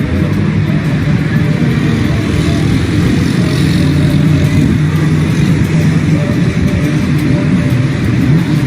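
Steady vehicle noise: a motor running with an even, constant wash of noise over it.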